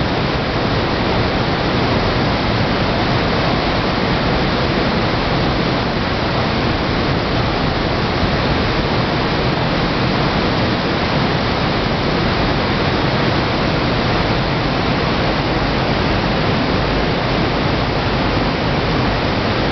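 Waterfall: water falling and splashing steadily, a loud, even rushing with no breaks.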